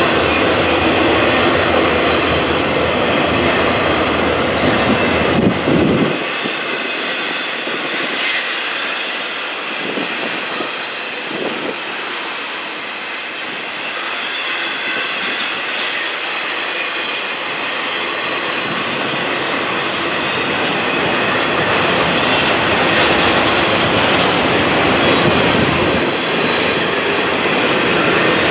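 Freight train rolling past, its wheels clacking over the rails with high-pitched flange squeal. A heavy low rumble drops away about six seconds in, and the squeal comes through most clearly around eight seconds and again near the end.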